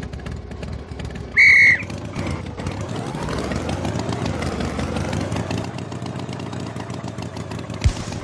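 Engine running steadily, its pitch slowly rising and falling. A short, loud, high whistle-like beep sounds about a second and a half in, and a brief low thump comes near the end.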